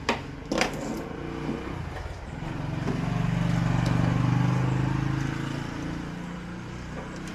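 A couple of sharp clicks near the start, then the engine of a passing vehicle: a steady hum that swells to its loudest about halfway through and fades away.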